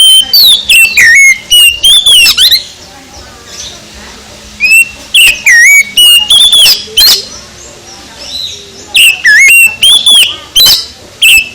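Oriental magpie-robin (kacer) singing loud, varied whistled phrases of rising and falling notes, in three bouts separated by pauses of about two seconds.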